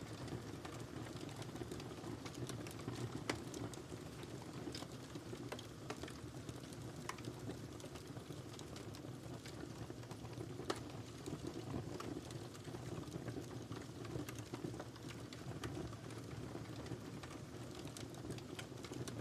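Wood fire crackling in a fireplace: a steady low rush of burning with irregular sharp pops and snaps, the strongest about three seconds in and again about ten and a half seconds in.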